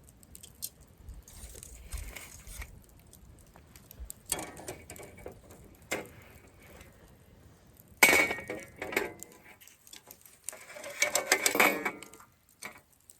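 Camp cooking gear clinking and rattling as it is handled, in scattered bursts, with the loudest clank about eight seconds in and a brief metallic ring after it.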